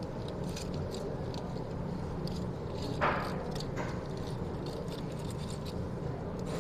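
Close-miked eating sounds: chewing with many small mouth clicks, and one louder bite about three seconds in, over a steady low hum.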